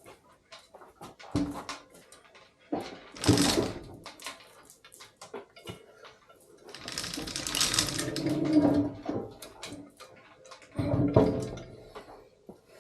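Irregular knocks and clatter of objects being handled, with a louder, longer scraping noise from about the middle of the clip.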